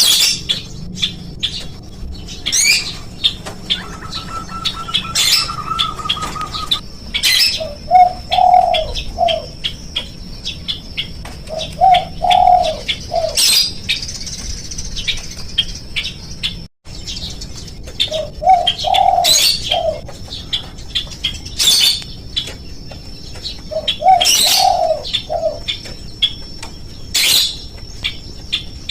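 Spotted dove cooing: a short three-note phrase repeated about every four to five seconds. Many sharp, high chirps of other birds and a steady, thin high whine run beneath it.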